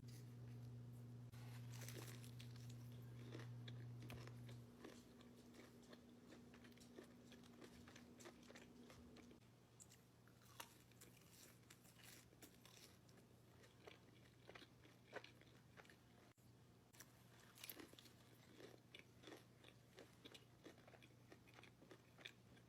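Close-up crunchy bites and chewing of crispy spicy fried chicken, many short crackles scattered throughout. A steady low hum sits under the first few seconds and stops about five seconds in.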